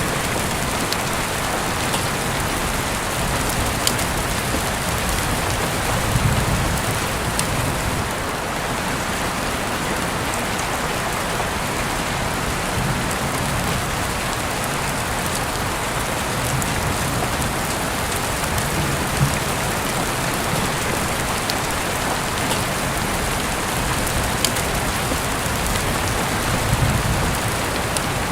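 Heavy rain falling steadily, heard through an open window, with scattered sharper drop ticks over the even hiss.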